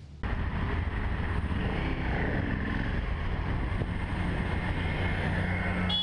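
A moving car's engine and road noise, steady and fairly loud, picked up by a dashcam. It cuts in suddenly about a quarter second in, and a short high beep starts at the very end.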